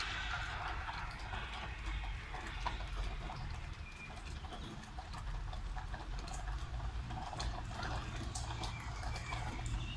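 Rain in a city street: many scattered drips and taps over a steady low rumble. A hiss fades over the first second or two.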